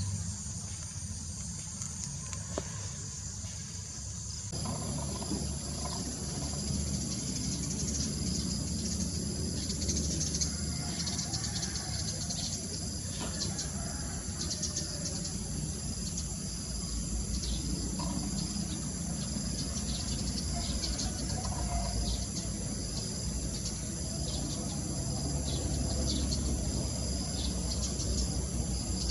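Outdoor insect chorus, a steady high buzzing and shrilling, with many short bird chirps over it and a low rumble underneath that grows about four and a half seconds in.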